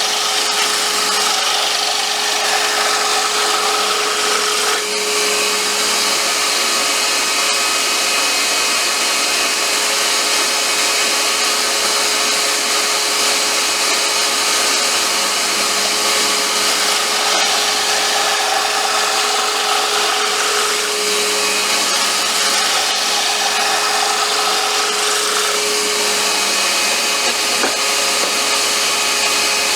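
Wood lathe running while a popper lure blank is turned: a steady machine tone under a continuous rough cutting hiss of tool on wood.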